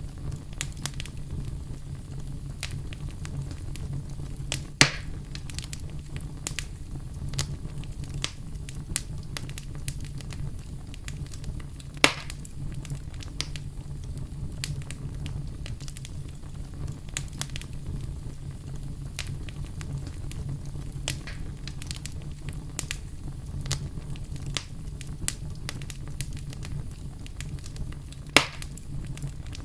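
Wood fire crackling with a steady patter of small snaps over a low, even rumble. Three much louder sharp pops come about five seconds in, near the middle, and near the end.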